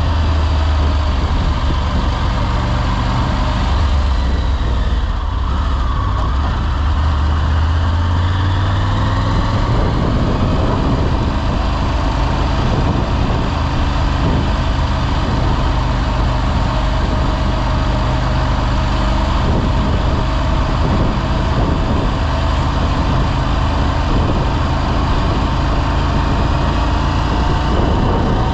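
Motorcycle engine running steadily while riding on the road, with road and air noise over it; the low engine note changes about ten seconds in.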